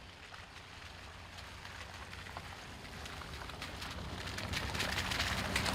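A vehicle engine running with a steady low hum under a dense crackling noise, both growing louder.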